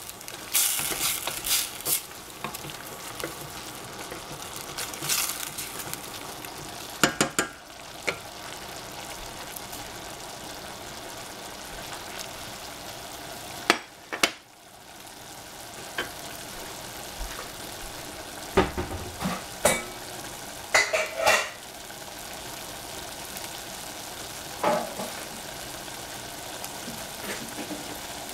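Oyster mushrooms and greens sizzling steadily in a stainless steel saucepan over a gas flame, cooking down in a little added water. A wooden spatula knocks and scrapes against the pan in short spells of stirring near the start, around seven seconds, and again around twenty seconds.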